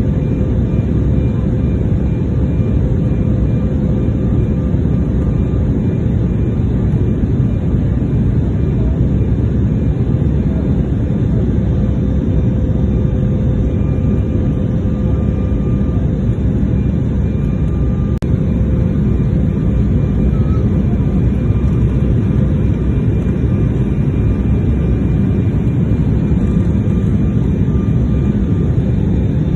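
Steady engine and airflow noise of an airliner heard from inside the passenger cabin, with a faint steady hum laid over it.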